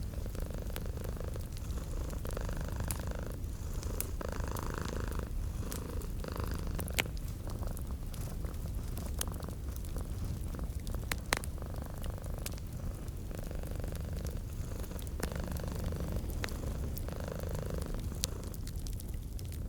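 A cat purring steadily, swelling and easing with each breath, over a fireplace's crackling, with sharp pops of burning wood now and then, the loudest about seven and eleven seconds in.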